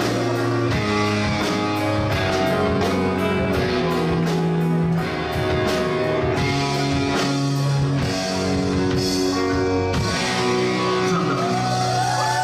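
Live rock band playing a slow ballad: electric guitar over sustained chords with a steady beat, and a bending lead line coming in near the end.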